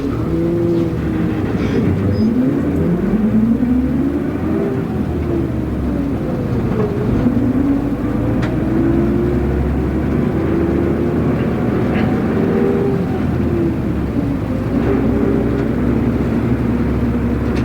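Route bus diesel engine and running noise heard from inside the cabin. The engine climbs in pitch, drops back, climbs again and then settles, as the bus pulls away and changes gear, with a few light rattles.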